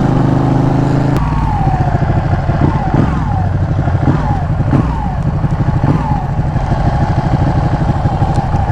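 Loud engine running in traffic: a steady drone for about a second, then a fast pulsing low rumble with short falling whines repeating about once a second.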